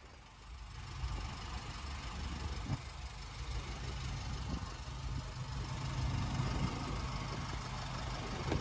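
Miniature railway locomotive running with a steady low hum, getting louder about half a second in and building gradually after that, with a few faint knocks.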